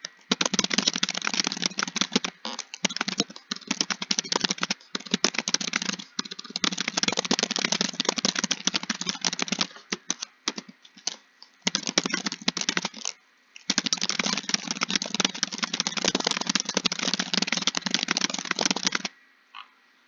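Rapid typing on a computer keyboard: dense runs of key clicks with brief pauses between bursts, stopping about a second before the end.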